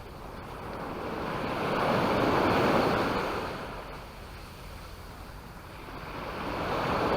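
Sea waves breaking on a beach, the surf swelling and fading twice, with some wind on the microphone.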